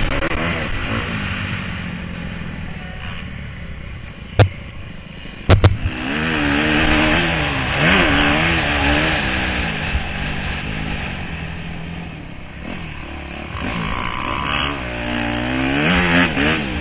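A 250cc four-stroke single-cylinder motocross bike engine, heard from the rider's helmet, revving up and falling back again and again as the throttle is opened and shut. There are sharp knocks about four and a half and five and a half seconds in.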